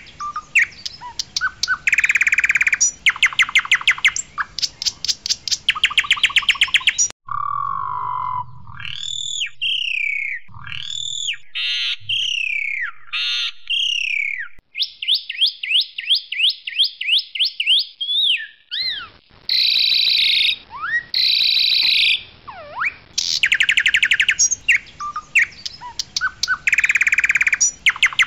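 Asian pied starling singing a varied song: fast rattling, clicking note trains alternate with clear whistles that slide up and down, a quick high trill and some harsh notes. The song changes abruptly about seven seconds in, as at a splice in the recording.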